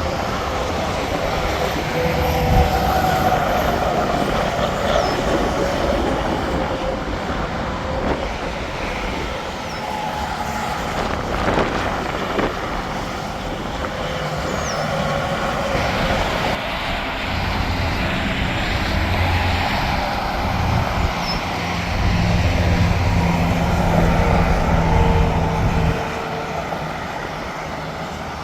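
Interstate highway traffic passing steadily, tyre noise and engines of semi-trucks and cars, with one heavy truck's engine loudest for a few seconds near the end.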